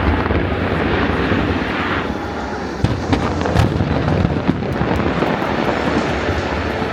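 Aerial fireworks display: a continuous low rumble of bursting shells, with a run of sharp crackles and pops from about three seconds in.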